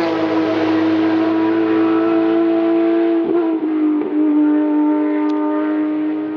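Race car engine running at high revs on a hillclimb run, its pitch held nearly steady, dipping briefly twice a little after halfway and easing slightly in level near the end.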